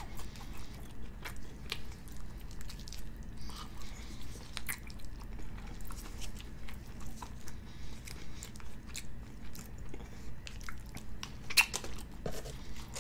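Close-miked chewing in a steady rhythm of about two chews a second, with wet mouth clicks. A few sharp crinkles come from a ketchup packet being squeezed, the sharpest near the end.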